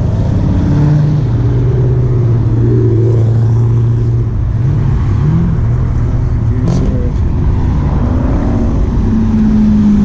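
Car engines running in slow cruise traffic: a steady low engine hum, with a short wobble in pitch about halfway through, a sharp click, and a higher engine note coming up near the end.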